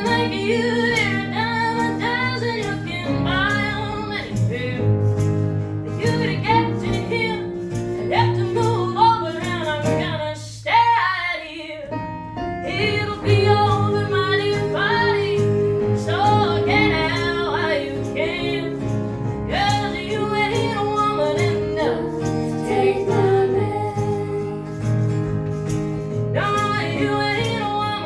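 Live music: women singing a melody over acoustic guitar accompaniment, the low accompaniment dropping out briefly about eleven seconds in.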